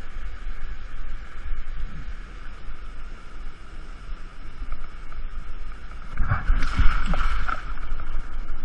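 Rushing water of a waterfall's stream: a steady rush over a heavy low rumble on the microphone, with a louder burst of splashing about six to seven and a half seconds in.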